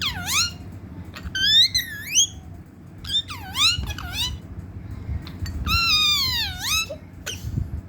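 Parrot calling: about four loud, high-pitched calls, each swooping down and back up in pitch, the longest near the end.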